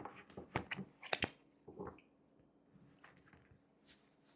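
Tarot cards being shuffled by hand: a run of short, crisp card snaps and slides, busiest in the first two seconds, then a few fainter ticks.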